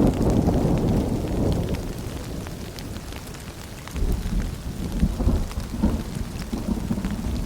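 Steady rain with scattered drop ticks and low rolling thunder. The rumble eases about two seconds in and builds again about four seconds in.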